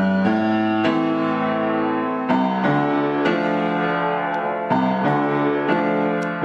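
Piano accompaniment playing a slow run of sustained chords, a new chord struck about every second.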